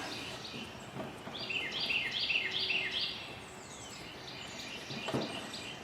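A small bird singing a quick run of about seven short, falling chirps in the first half, with a faint click or two of handling in the background.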